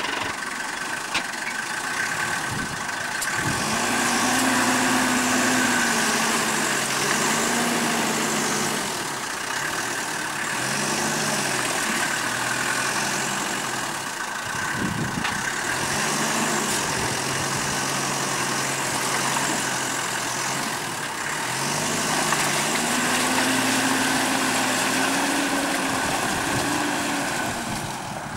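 Range Rover Classic's V8 engine revving up and down several times under load as it crawls through deep mud.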